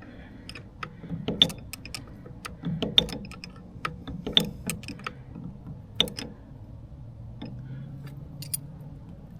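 Open-end wrenches clinking on the small nuts of an outboard motor's shift shaft as they are turned loose: irregular sharp metallic clicks, with four louder ones spaced a second or two apart.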